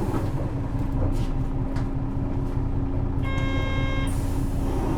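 Isuzu 6HK1 diesel engine of a city bus running steadily, heard from inside the bus. A short electronic beep sounds about three seconds in.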